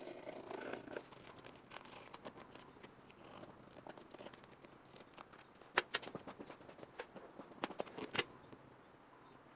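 Scattered small clicks, scrapes and knocks of hand work on the car's rusted sheet-metal body panels, with two sharper clicks about six and eight seconds in.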